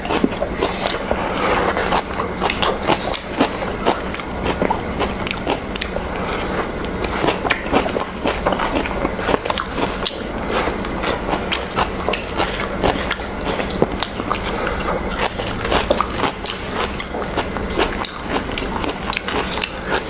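Close-miked chewing of Manipuri singju, a crunchy raw vegetable salad: a dense, irregular run of short crisp crunches and mouth sounds.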